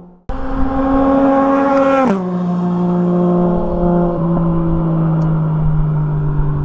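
Yamaha MT-09 SP's inline three-cylinder engine through an Akrapovic exhaust, starting abruptly on a loud, steady high note. About two seconds in the pitch drops sharply, and the engine holds a lower note that sinks slowly.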